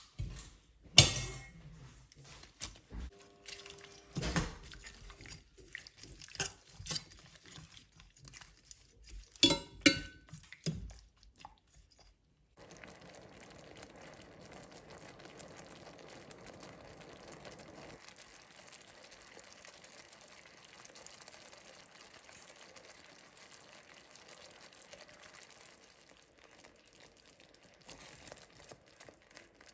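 Kitchenware clinking and knocking: a run of sharp taps and clinks of utensils against dishes and pots, the loudest about a second in, with a cluster near ten seconds. From about twelve seconds only a faint steady hiss remains.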